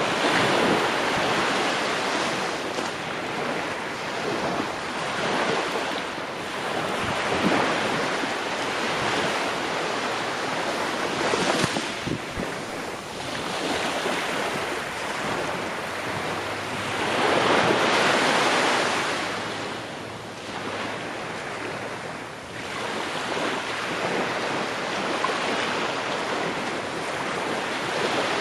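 Ocean waves breaking and washing ashore in a continuous surge, each wave swelling up and then fading over a few seconds, with the largest breaks about a second in, near the middle and at about two-thirds of the way through, and some wind.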